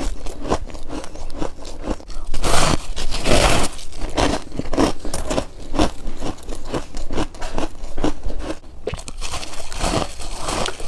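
Freezer frost being bitten and chewed close to the mouth: a quick run of crisp crunches, with a louder, longer crunching stretch about two to four seconds in.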